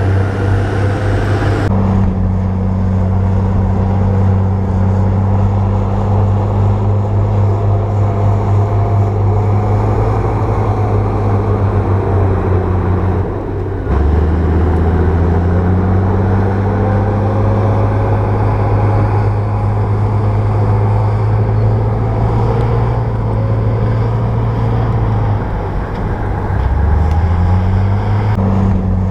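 Heavy diesel engine of a bulldozer running with a steady low drone. The engine note dips briefly about halfway, then drops and climbs back a couple of seconds before the end.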